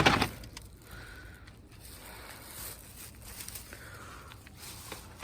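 A shopping bag set down with a thump, then faint rustling and scraping as its contents are handled.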